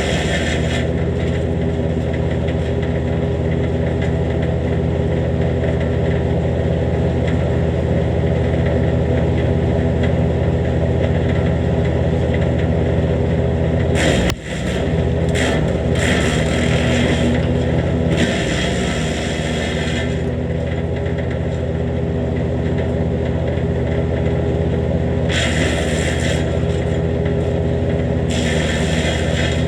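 Jansen GTS-1500 wood chipper running steadily at working speed, with several stretches of harsh grinding where branches are fed through its fresh blades and newly adjusted bed knife. The sound drops out briefly about halfway.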